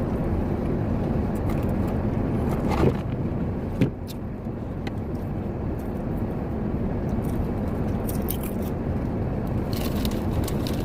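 Steady low rumble of a truck idling with its heater running, heard inside the cab, with a couple of short knocks about three and four seconds in and faint clicks later on.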